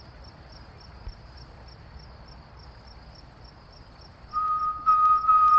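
Crickets chirping faintly, about four chirps a second. A little over four seconds in, a person starts whistling a long, steady note that grows louder.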